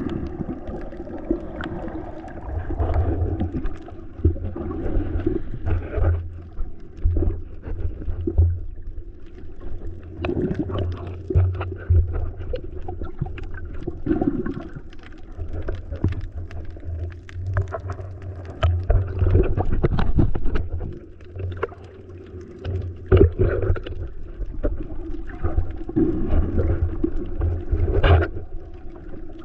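Muffled sound of a camera under or at the surface of the sea: water sloshing and gurgling over a low rumble, with many irregular small clicks and knocks.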